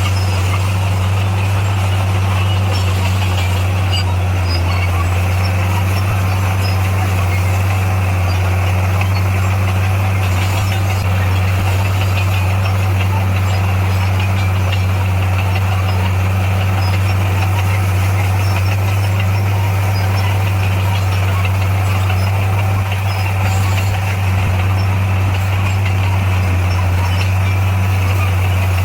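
Bulldozer's diesel engine running steadily under load at constant revs.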